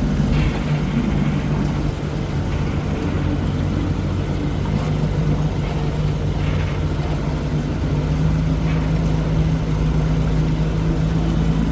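Johnson 20 hp two-stroke outboard motor running steadily with the boat under way, its pitch rising slightly about eight seconds in.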